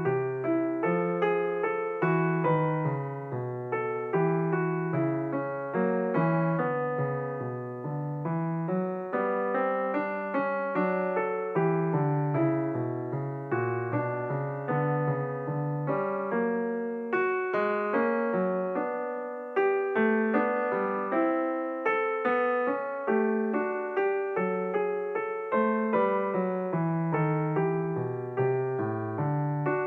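Background piano music: a steady run of notes with no voice.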